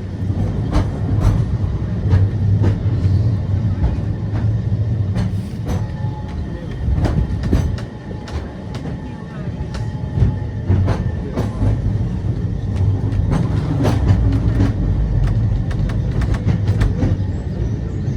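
Great Orme Tramway tramcar running on its cable-hauled line: a steady low rumble with many irregular clicks and knocks.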